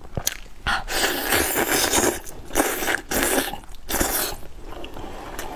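Close-miked mouth sounds of a person biting and chewing roast chicken leg, coming in repeated bursts of about a second with a few sharp clicks.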